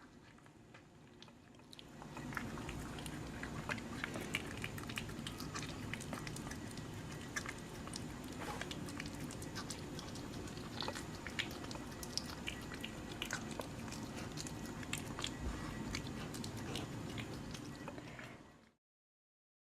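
A pet chewing and crunching food, a dense run of irregular crisp clicks that starts about two seconds in and cuts off suddenly near the end.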